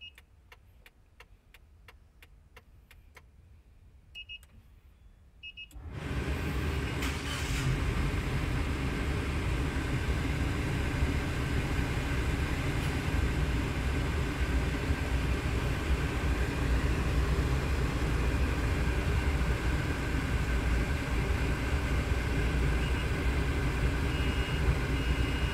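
A few short electronic beeps and faint ticks as the RFID card is swiped, then about six seconds in the Suzuki Arena's engine cranks, starts and settles into a steady idle, started by the card through the Arduino relay system. A few short beeps sound again near the end.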